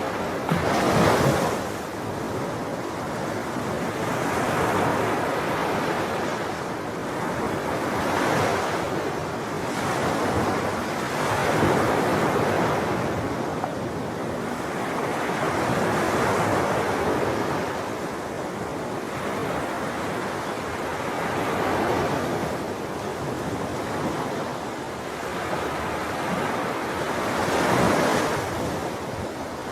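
Ocean surf: waves breaking and washing in continuously, swelling and easing every few seconds, with a sharper crash about a second in and another near the end.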